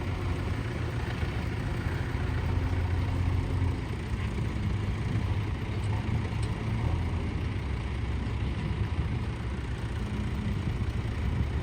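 Heavy diesel machinery engine running steadily with an even, low rumble.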